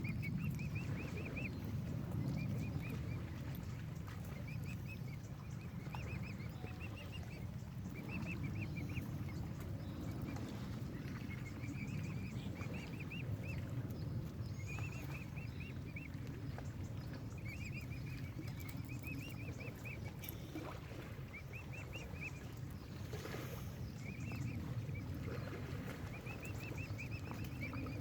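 Mute swan cygnet peeping: short runs of quick, high notes every second or two, over a steady low rumble.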